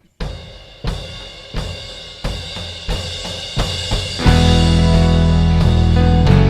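A worship band starting the hymn's introduction. Drum and cymbal hits come about every two-thirds of a second. About four seconds in, the full band comes in with bass and sustained chords.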